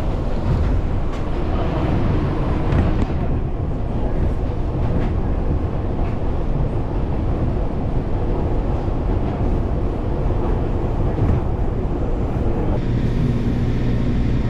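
Fujikyu 6000 series electric commuter train (a converted JR East 205 series EMU) running on the rails, a steady rumble with a few faint clicks early on. Near the end it gives way to a steadier low hum.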